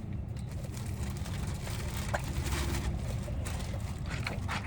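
Steady low rumble of a car's interior, engine and road noise, with a few short sharp rustles or clicks near the end.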